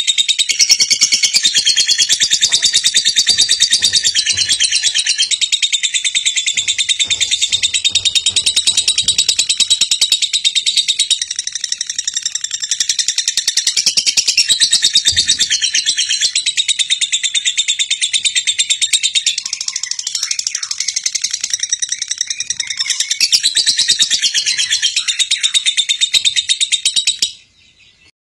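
Birds chirping in a dense, continuous high-pitched chorus, which cuts off abruptly near the end.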